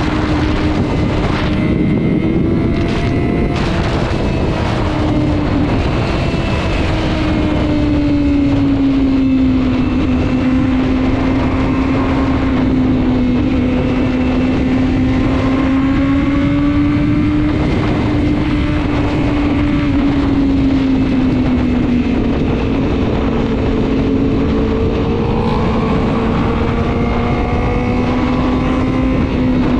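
Sport motorcycle engine running steadily at highway speed. Its drone slowly drifts down and back up in pitch as the throttle changes, with wind rushing over the microphone.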